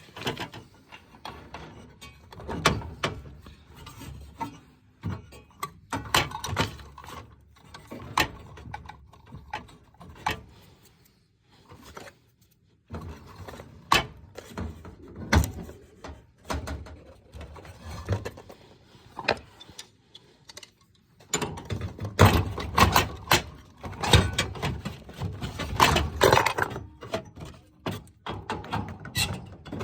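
Irregular clicks, knocks and metallic clatter of hand work on heating pipework, such as tools and valve parts being handled. There is a brief lull a little before halfway, and the handling grows busier and louder in the last third.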